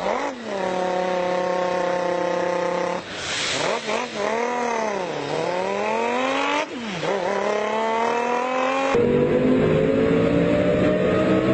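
A person's mouth impression of a naturally aspirated Lamborghini Gallardo V10 engine: a steady held engine note, then a pitch that dips and swings back up, then a long rising rev. About nine seconds in the sound turns louder and rougher and keeps climbing slowly.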